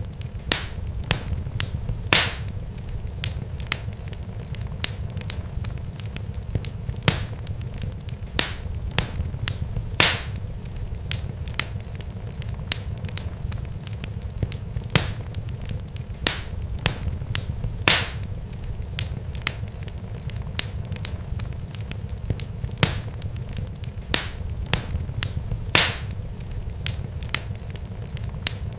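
Irregular sharp crackles and pops, many small ones and a few loud snaps, over a steady low rumble.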